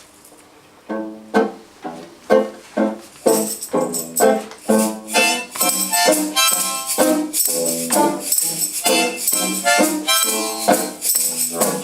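Live instrumental introduction to a song: rhythmic chords start about a second in, joined about three seconds in by rattling hand percussion like a tambourine.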